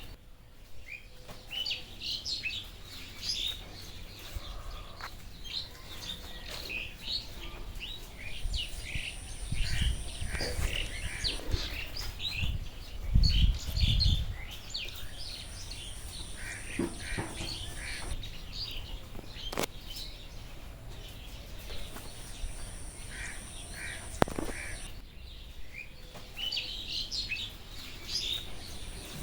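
Birds chirping in many rapid, short, overlapping calls. Brief low rumbles come about a third of the way in and again just before the middle.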